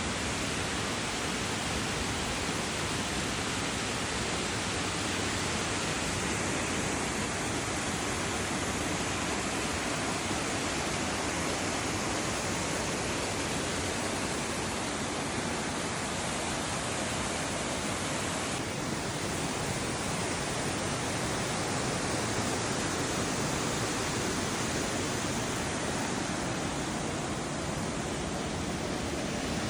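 Waterfall on the Rivière du Loup: a steady, dense rush of falling water, with a slight change in its tone about two-thirds of the way through.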